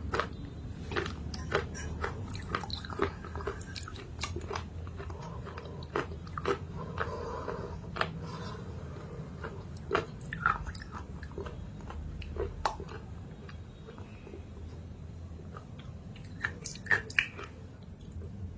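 Close-miked chewing and biting of a thick chalk paste, with irregular sharp crunches between softer chewing; the loudest crunches come about ten seconds in and near the end.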